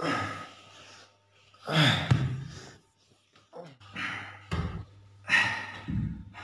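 A person breathing hard with gasps and sighs, several heavy breaths about a second each, over a faint low hum.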